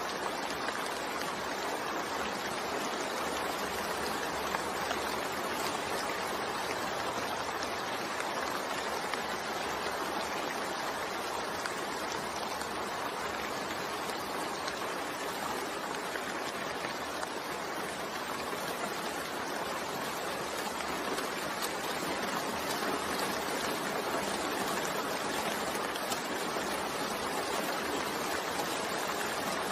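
Steady rain falling, an even hiss with faint patter of drops on surfaces.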